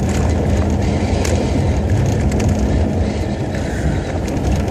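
VAZ-2106 Zhiguli driving through deep snow, heard from inside the cabin: a steady engine and road rumble with scattered crunching clicks as the car ploughs through the snow.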